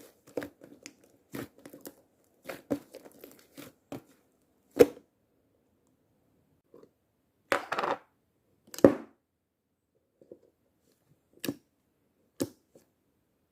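Slime being handled: a quick run of small crackling pops and clicks for the first four seconds, then a few separate louder pops and squishes, the loudest about five and nine seconds in.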